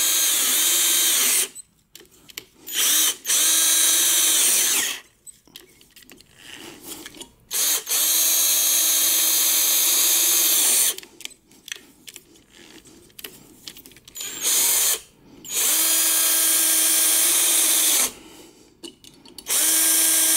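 Hand-held electric drill boring into a broken-off steel exhaust manifold stud with a small bit, run in about six short bursts of one to three seconds with pauses between, a steady motor whine during each run.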